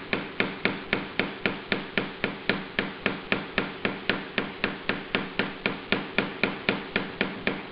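Vacuum pump being worked steadily to draw the air out of a sealed vacuum bag, giving an even run of sharp clicks at about four to five a second.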